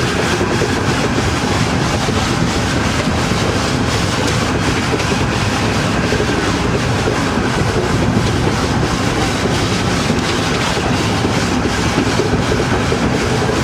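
Train running along the rails: a steady rumble with a continuous clatter of wheels.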